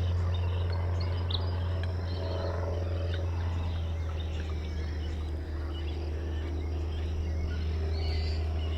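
Birds chirping now and then over a steady low drone.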